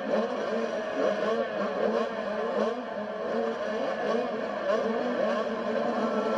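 Several motocross bikes' engines revving up and down together, their overlapping pitches constantly rising and falling as the bikes race.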